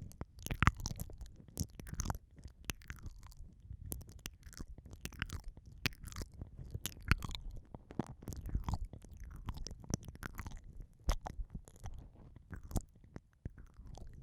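Close-up wet mouth sounds of ASMR ear eating: irregular lip smacks, tongue clicks and licking right at the microphone, several a second, with soft low rumbles between them.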